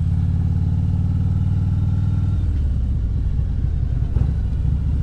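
Motorcycle engine running steadily at low speed. Its note changes about halfway through, as with a throttle change or gear shift.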